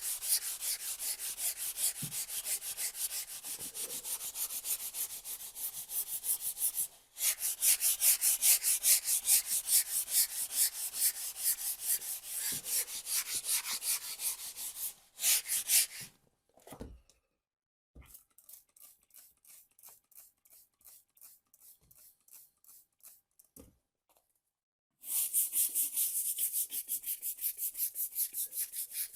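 Scrubbing bicarbonate-and-bleach paste off red-painted floor tiles, quick back-and-forth rubbing strokes at about five a second, a sign the paint is lifting from the tiles. The strokes cut out briefly several times and are quieter through the middle stretch.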